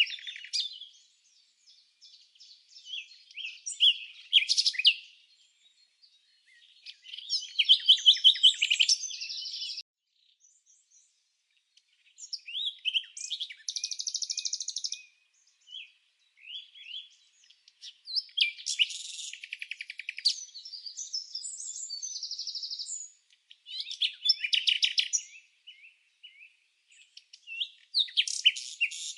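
Songbirds singing in high-pitched twittering phrases of one to three seconds each, with short pauses between them.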